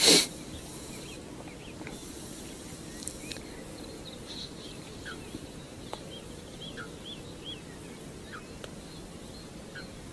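Birds calling faintly: short high chirps and little falling notes every second or so over a steady low hiss. A brief loud rush of noise comes at the very start, and a couple of light clicks come midway.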